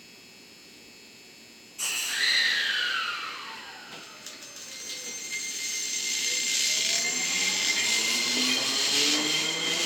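Seibu 20000-series electric train's VVVF inverter and traction motors whining as the train pulls away: starting suddenly about two seconds in, a tone sweeps down, then a set of tones rises steadily as it gathers speed.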